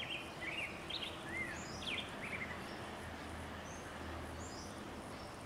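Quiet outdoor ambience: a low steady background noise with small birds chirping, a run of short rising and falling calls in the first couple of seconds and a few fainter ones later.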